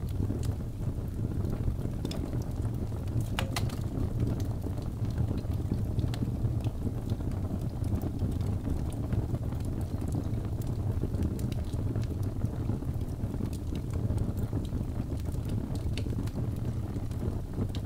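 Birchwood fire burning with a steady low rumble and scattered sharp crackles and pops throughout.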